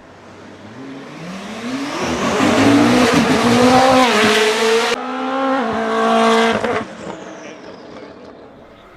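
Koenigsegg Jesko's twin-turbocharged V8 accelerating hard, its pitch climbing, with a dip at a gear change about four to five seconds in. It climbs again, then falls away sharply near seven seconds as the car passes and fades.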